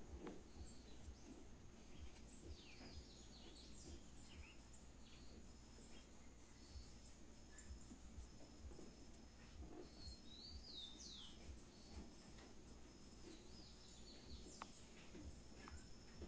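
Near silence with faint bird chirps now and then, including a quick run of short falling chirps about ten seconds in.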